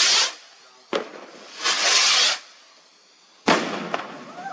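Fireworks being let off: twice a hissing whoosh of a shot going up, each followed about a second later by a sharp bang, the second bang with a smaller crack just after it.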